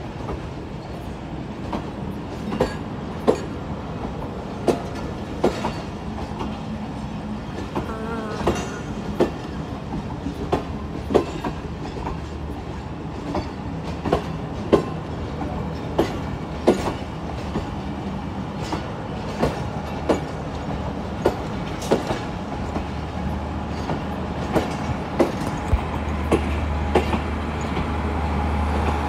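Passenger coaches of a departing train rolling past, their wheels clacking over rail joints about once a second above a steady rolling rumble. A low steady hum comes in near the end and grows louder.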